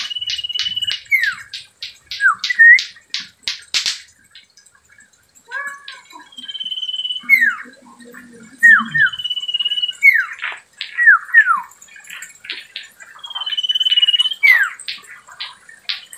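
Common iora (cipoh) calling over and over: quick runs of sharp ticking notes, about five a second, mixed with a level whistle held for about a second and short whistles that slide down in pitch.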